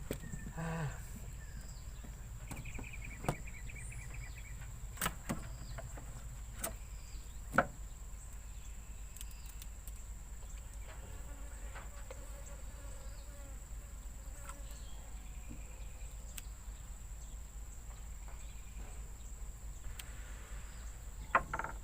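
Insects give a steady high-pitched buzz, with a brief trilled chirp a few seconds in. Scattered sharp clicks and knocks fall over it, the loudest about seven and a half seconds in.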